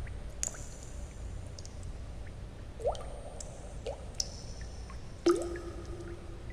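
Water drops falling into water, a few irregular plinks with quick upward pitch glides, the loudest about five seconds in, ringing briefly. Under them runs a steady low white-noise rush.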